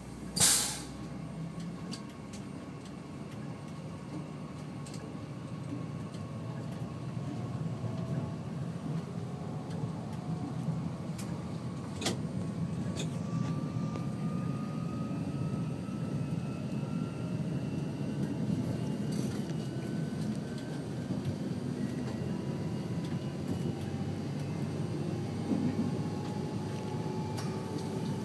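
Electric train pulling away from a station, heard inside the driver's cab: a low running rumble that grows louder as it gathers speed, with thin motor whines slowly rising in pitch. A short loud hiss comes about half a second in, and a few sharp clicks later.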